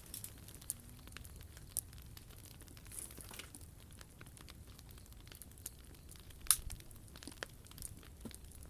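Wood fire crackling, with irregular sharp pops and snaps; the loudest pop comes about six and a half seconds in.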